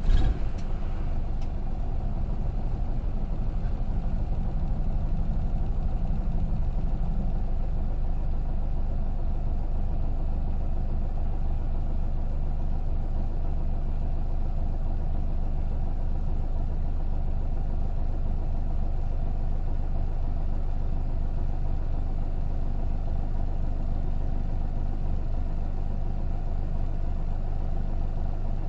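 Interior sound of an Isuzu KK-LR233J1 city bus under way: its inline-six diesel engine running with a steady drone. There is a brief thump right at the start.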